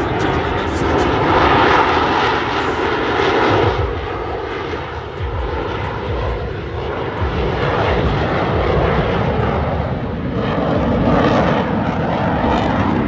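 Jet engine noise from Blue Angels Boeing F/A-18 Super Hornets making a slow, nose-high pass: a loud, continuous roar that eases for a few seconds in the middle and then swells again.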